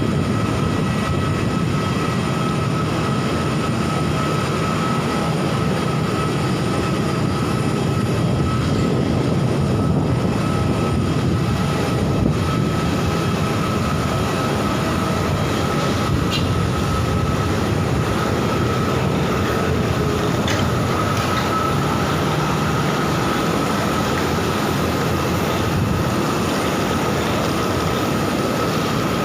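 Steady mechanical drone with a low rumble and a constant high whine, unbroken and even in level.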